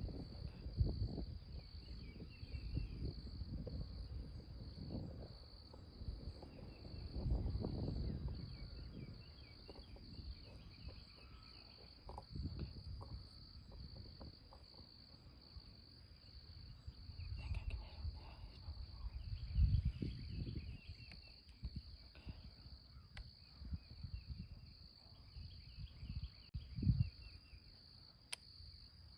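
Steady high insect-like trilling chorus in an early-morning outdoor soundscape, with scattered high chirps of small birds. Irregular low rumbling on the microphone comes and goes, loudest about a second in, near 7–8 seconds, near 20 seconds and near 27 seconds.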